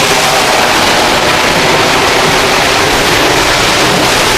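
Loud, steady rush of a waterfall heard up close, a dense even roar of falling water with no break.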